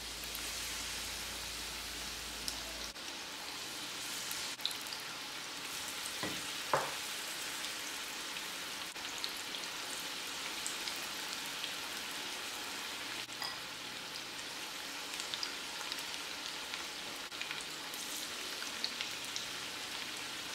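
Batter-coated cauliflower florets deep-frying in hot oil: a steady sizzle with scattered small crackles and one louder pop about a third of the way in.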